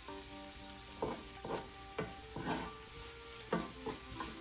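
Chopped onion and garlic sizzling in hot oil in a frying pan while a spatula stirs them, knocking and scraping against the pan about every half second to second.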